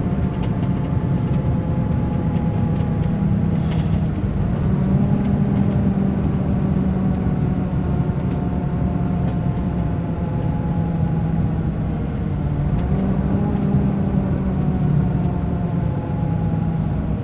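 Diesel engine of a Mercedes-Benz O500 RSD BlueTec5 coach running steadily, its pitch dipping slightly about twelve seconds in and then rising again.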